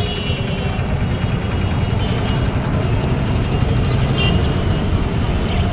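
Steady road-traffic noise, a dense low rumble of passing vehicles, with one short sharp sound about four seconds in.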